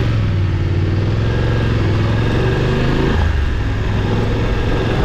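Motorcycle engine running under way on a gravel road, with wind and road noise. The revs dip and pick up again about three seconds in.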